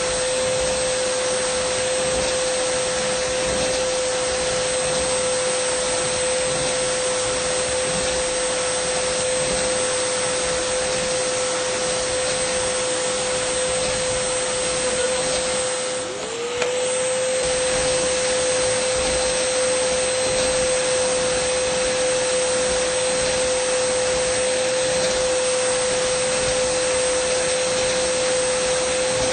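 Dyson vacuum cleaner running steadily: a constant motor tone over a rush of air. About halfway through it dips briefly, the pitch dropping and climbing back.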